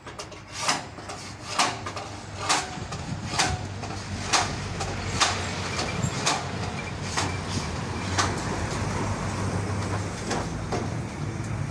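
Sharp knocks repeating about once a second over a steady low hum; the knocks grow fainter near the end.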